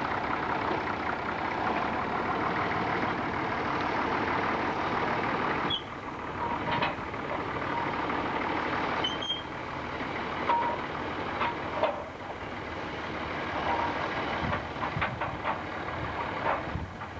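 Sawmill machinery running steadily, cutting off suddenly about six seconds in, followed by scattered clanks, knocks and short squeaks.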